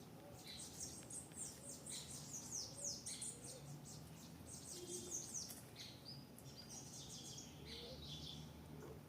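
Songbirds chirping: a rapid run of short, high, down-slurred notes, busiest in the first half and thinning out later.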